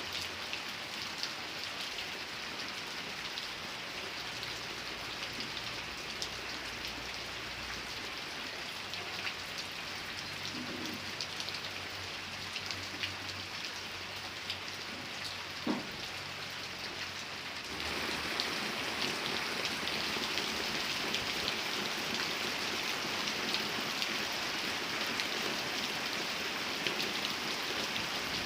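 Steady rain falling, with the patter of individual drops striking a surface. It grows suddenly louder about two-thirds of the way through. A faint low rumble sits under the first half, and a single knock comes just past the middle.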